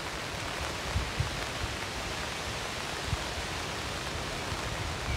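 Steady hiss of rain falling on foliage, with a few soft low thumps about a second in and again about three seconds in.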